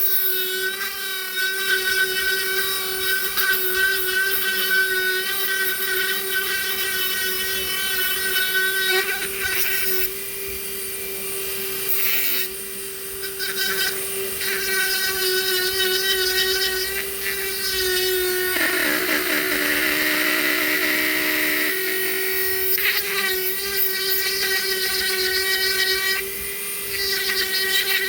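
Dremel rotary tool running at high speed as it carves hard manzanita wood, a steady high whine with a buzzing edge. For a few seconds about two-thirds of the way through, its pitch sags as the bit bogs under load, then it comes back up.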